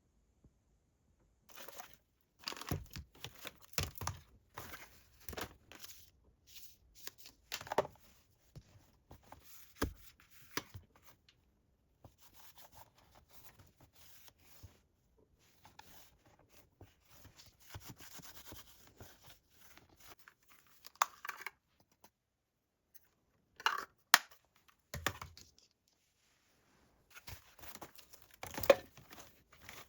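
Hand-handling noises: irregular rustling, crinkling and tearing in bursts, quieter through the middle, with a short pause about three-quarters of the way in.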